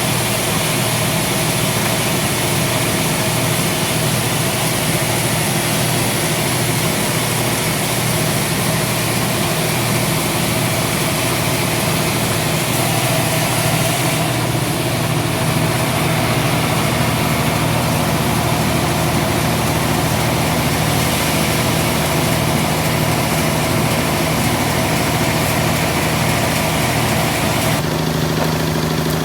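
Sawmill machinery running steadily, a low engine-like hum with a high hiss over it. The sound shifts slightly about halfway through and again shortly before the end.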